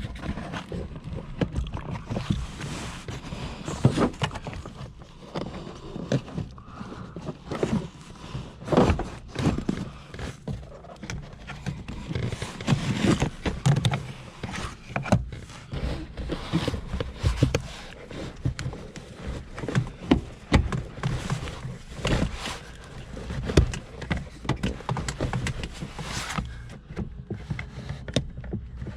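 Irregular knocks, clunks and rubbing from hands working gear shift cables through a car's firewall.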